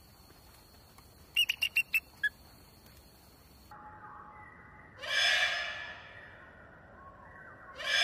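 Bird of prey calls: a quick series of six short, sharp, high calls, then two long breathy, rasping calls, each lasting about a second and about three seconds apart.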